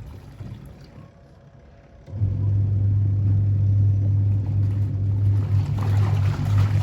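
A steady low electric hum, like a running motor, that drops away at the start and comes back in about two seconds in.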